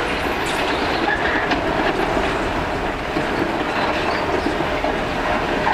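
Steady loud mechanical rumble with a constant hum and scattered light clanks and clicks.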